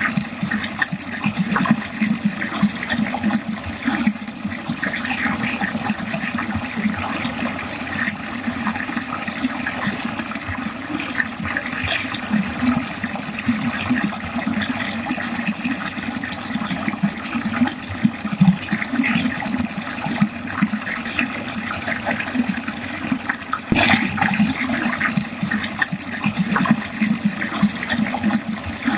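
Water flowing steadily down a drain, in continuous uneven splashes and gurgles. One sharp click about 24 seconds in.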